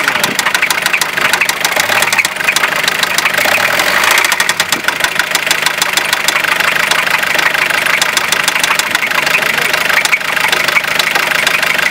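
Fiat Ducato 2.5 TDI diesel engine running steadily, with a fast, regular knocking running through it: the engine knock the owner is recording.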